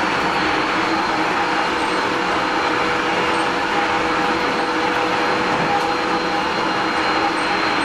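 Tobu Series 30000 electric train with Hitachi IGBT-VVVF traction control running at steady speed, heard from inside the passenger car: a constant rumble of wheels on the rails with a few steady whining tones over it.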